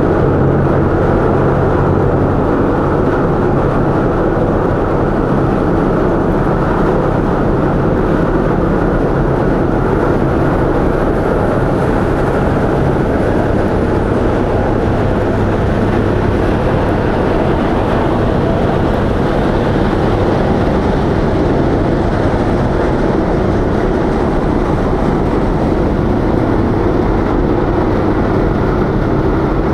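Car ferry's diesel engines running with a steady low drone and an even rushing noise as the ship manoeuvres in harbour. The low hum eases off in the middle and grows stronger again near the end.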